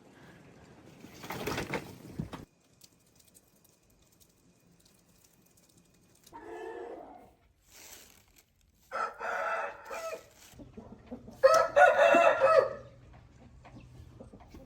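Rooster crowing: two shorter calls, then a longer, loudest crow near the end. A brief burst of noise comes about a second and a half in.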